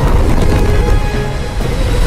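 Dramatic film score over a loud, dense low rumble of action sound effects.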